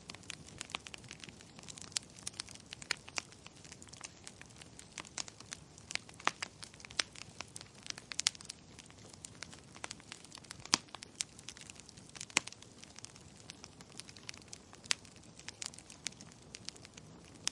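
Burning wood logs crackling, with frequent irregular sharp pops and snaps, a few much louder than the rest.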